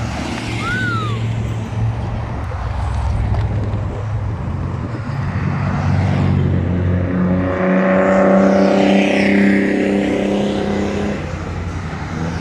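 Trucks in a caravan driving past with engines running; partway through a louder vehicle passes, holding a steady pitched drone for several seconds before it fades.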